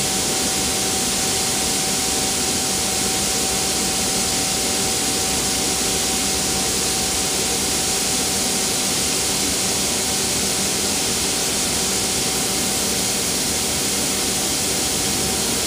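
Freight cars rolling past at close range: a steady, loud hiss and rumble of steel wheels on the rails, with a steady whine running through it.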